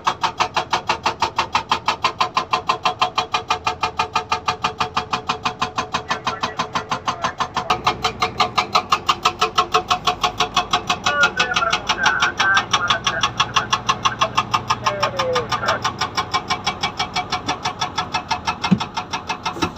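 SAGA 288H hydraulic rock breaker on a Komatsu PC200 excavator hammering stone, rapid, even blows at several per second without a break.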